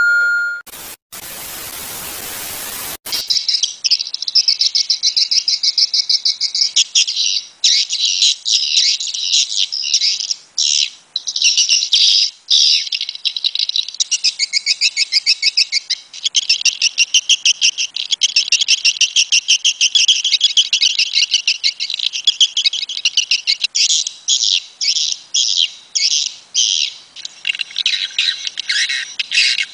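Swiftlet calls: a dense, continuous run of rapid high-pitched twittering chirps. The chirps begin about three seconds in, after a brief ding and about two seconds of hiss.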